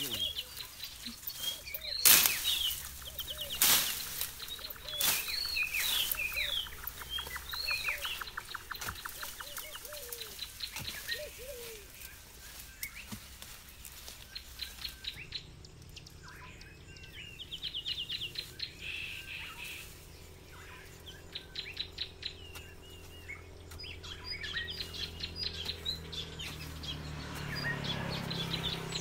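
Wild birds chirping and calling in short, rising and falling phrases and quick trills. A few sharp knocks stand out near the start, the loudest sounds here.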